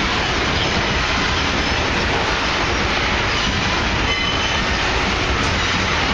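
Loaded iron-ore hopper wagons rolling past: a steady, loud noise of steel wheels on rail, with faint high wheel squeals now and then.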